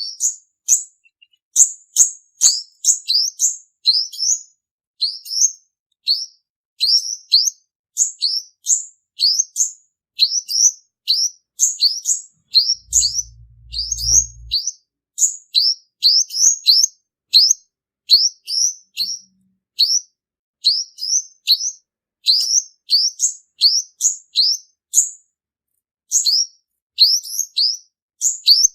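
Male sunbird singing a fast, unbroken run of short, high chirps, two to three a second, the kind of male song played as a lure to trap sunbirds.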